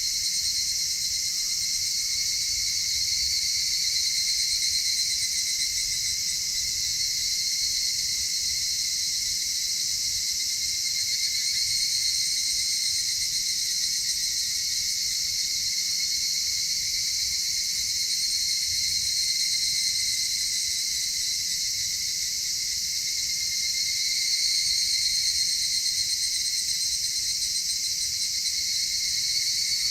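Chorus of insects, several kinds trilling steadily at once at different high pitches.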